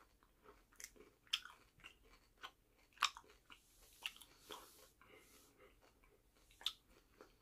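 Faint close-up chewing of a milk chocolate egg filled with Reese's Pieces candies: irregular soft crunches and mouth clicks.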